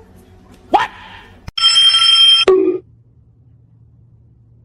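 A loud, steady, bell-like ringing tone with several pitches held for about a second, starting after a sharp click about a second and a half in. A short rising sound comes just before it.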